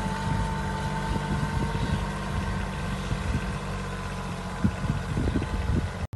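Kubota B2741 compact tractor's diesel engine running steadily, with a steady whine over the hum and scattered light knocks and rattles.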